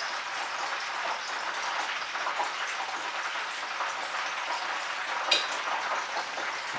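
Chicken pieces frying in hot oil in a pan on the stove, a steady crackling sizzle. A single sharp clink about five seconds in.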